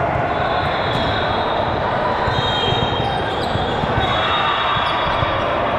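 Busy indoor volleyball tournament hall: a steady, echoing din of balls bouncing and being struck, with thin high shoe squeaks and voices in the background.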